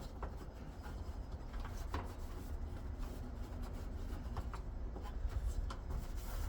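Rag rubbing and wiping over the wiring inside an air-conditioner's electrical compartment, with scattered light clicks and knocks from handling, over a steady low rumble.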